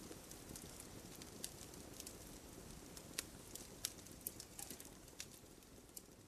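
Wood fire burning low with a soft steady hiss and scattered sharp crackles and pops, about one or two a second.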